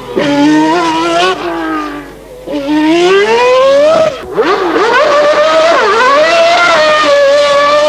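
Honda V12 Formula One engine of a McLaren running hard, its pitch climbing and falling back repeatedly through gear changes. The engine eases off about two seconds in, then there is a sudden sharp drop a little past four seconds before it climbs again.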